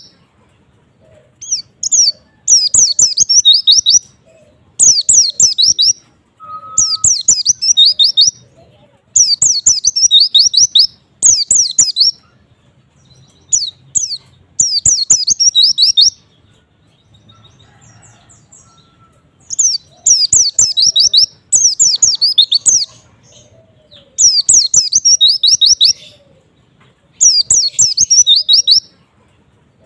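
White-eye (pleci) singing: fast, high, twittering warbled phrases of one to two seconds each, repeated about a dozen times with short pauses, and a longer pause about halfway through.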